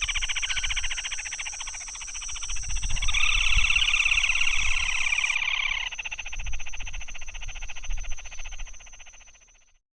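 Russet-crowned crake (sanã-vermelha) giving a long, very rapid rattling trill. The trill swells louder in the middle and then eases off, with a steady high-pitched whine behind it.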